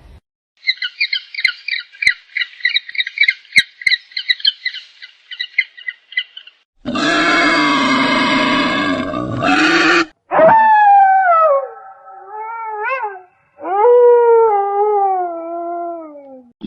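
A string of different animal calls. Several seconds of rapid high-pitched chirping, then a loud harsh call lasting about three seconds, then long howl-like calls that slide up and down in pitch.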